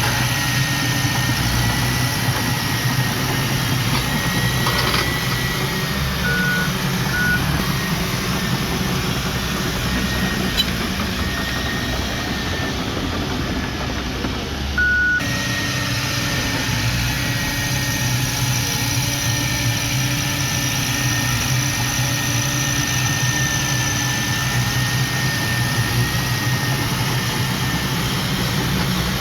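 Heavy machinery engine running steadily at a low, even pitch, with a thin high whine over it and a few short electronic beeps.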